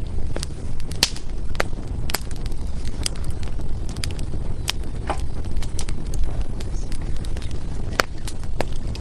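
Wood fire burning, with frequent sharp crackles and pops from the burning logs over a low steady rumble of the flames.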